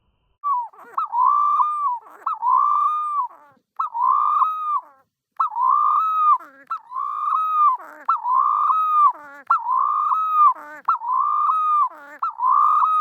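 Pet dove calling: a run of about ten pitched calls, each rising and falling and lasting about a second, with short gaps between them.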